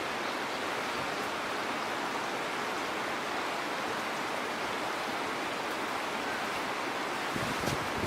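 Steady outdoor rushing noise, like running water, with a few faint clicks and a low rumble near the end.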